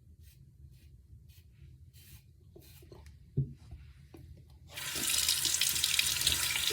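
Faint, evenly spaced swishing strokes of a shaving brush working lather, with a light knock, then a faucet is turned on about two-thirds of the way in and water runs steadily into the sink.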